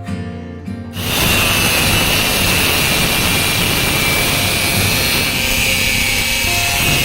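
Guitar music, then about a second in a power tool starts cutting or grinding, a loud steady noise with a high whine that drifts slightly lower.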